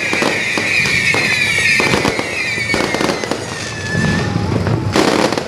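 Fireworks and firecrackers going off thickly: a rapid, continuous string of bangs and crackles. Over it runs a long whistle that slides slowly down in pitch and dies out about four seconds in, and a louder cluster of bangs comes near the end.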